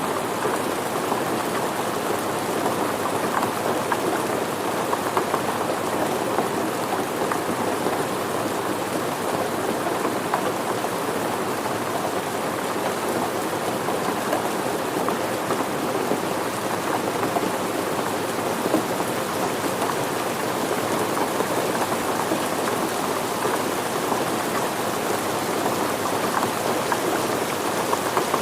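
Steady rain falling and pattering on surfaces, a constant even hiss with scattered drop hits.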